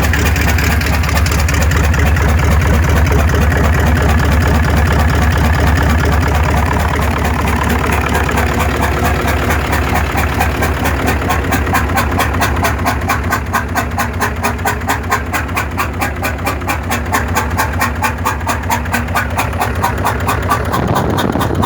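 Honda F20C inline-four engine idling steadily, with an even rapid pulsing that grows more distinct in the second half.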